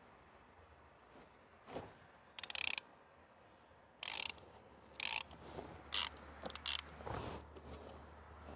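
Socket ratchet clicking in about five short bursts as a spark plug is unscrewed with a long extension.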